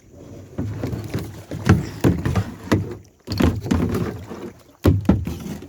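Kayaks on the water: irregular splashes and knocks from paddles and hulls, with a low rumble underneath.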